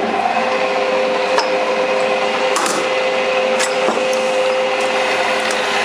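Small metal lathe running steadily, its motor giving a constant whine with a few light clicks.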